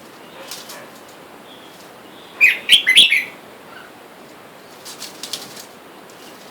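Red-whiskered bulbul giving a short, loud burst of chattering call notes about halfway through, with a few fainter, brief rustling sounds before and after.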